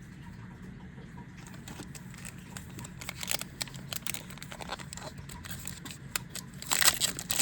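Foil Yu-Gi-Oh! booster pack wrapper crinkling and tearing, with the clicks and rustles of cards being handled, starting about a second and a half in and loudest near the end.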